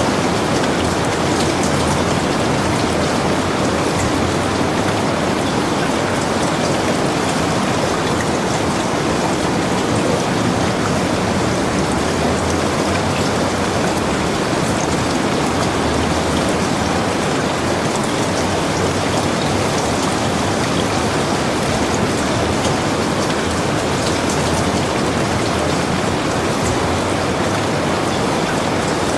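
Heavy rain falling steadily: a dense, even hiss of rain with scattered sharper drop ticks.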